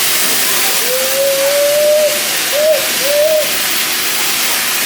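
Steam locomotive whistle: one long blast followed by two short ones, over a steady hiss.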